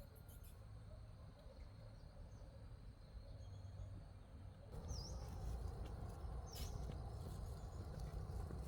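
Faint rural outdoor ambience, a low rumble and hiss that grows louder a little past halfway, with a small bird giving two short chirps in the second half.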